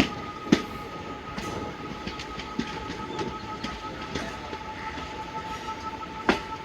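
Train wheels running over the track: irregular sharp clicks and knocks from rail joints over a steady rumble, with a thin steady whine throughout. The two loudest knocks come about half a second in and near the end.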